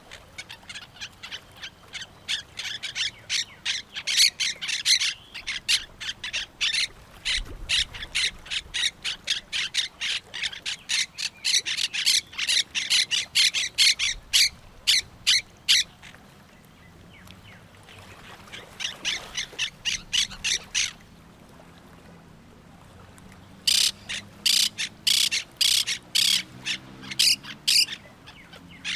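Parrots squawking in rapid runs of short, harsh calls, several a second, falling quiet briefly about sixteen and twenty-one seconds in.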